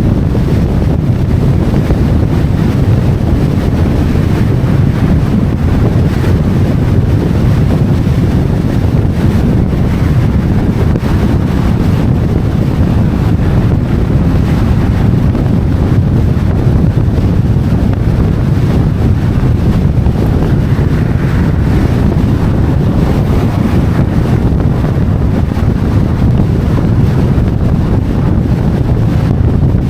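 Wind buffeting the camera microphone, a loud steady rumble with no breaks.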